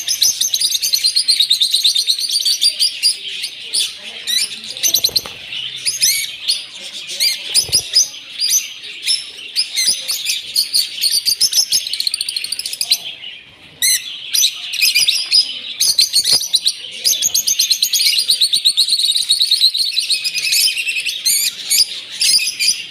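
Many small birds chirping and trilling at once, a dense continuous chatter of high notes that thins out briefly about halfway through.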